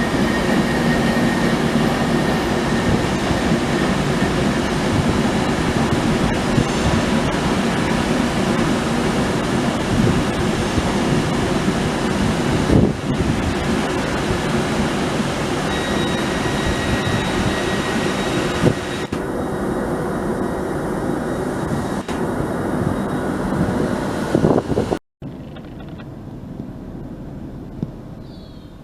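A train passing close by: loud, steady running and rail noise that cuts off abruptly about 25 seconds in.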